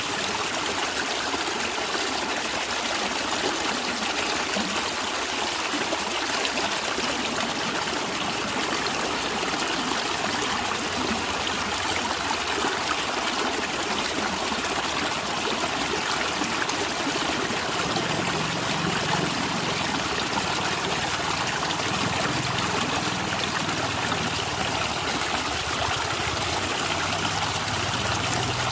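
A small stream of running water trickling and gurgling steadily, with a low rumble joining about two-thirds of the way through.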